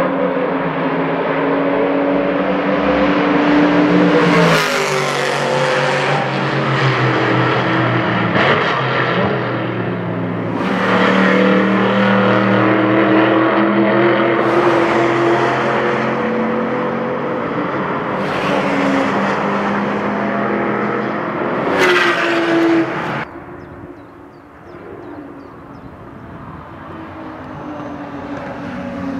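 Supercar and race-car engines running hard on a racetrack, passing one after another, their pitch rising and falling with gear changes. About three quarters of the way through it drops much quieter, then another car is heard approaching, getting louder.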